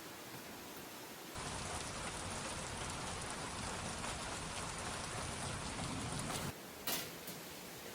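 Heavy rain pouring down in a dense, even hiss, cutting in abruptly about a second and a half in and cutting off about five seconds later. A sharp knock follows just after.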